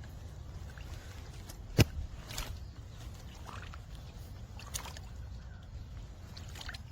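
Low, steady outdoor rumble, with one sharp click about two seconds in and a few fainter clicks later.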